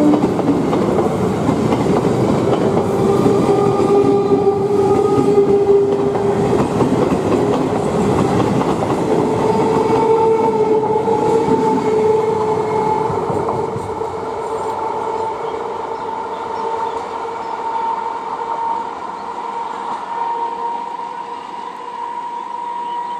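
Electric multiple-unit local train passing close at speed, wheels clattering over the track with a steady whine. The noise drops about 13 seconds in as the last coach goes by, leaving a quieter steady sound while the next train approaches.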